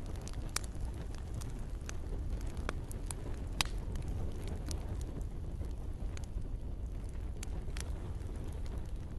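Wood campfire crackling: irregular sharp pops over a steady low rumble.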